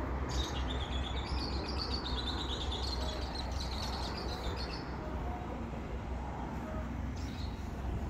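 Small birds chirping in rapid, high twitters for the first half, with a short burst again near the end, over a steady low rumble.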